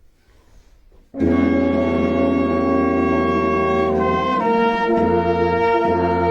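Town brass band entering loudly after a short pause about a second in, playing long held chords that change every second or so.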